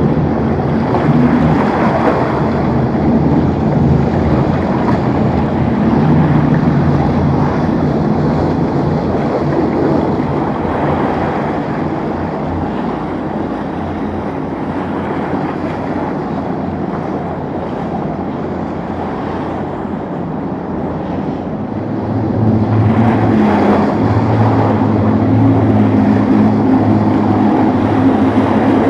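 Motorboat engines running through rough inlet water, with waves and wind buffeting the microphone. A stronger, deeper engine hum comes in about three-quarters of the way through as a louder boat passes close.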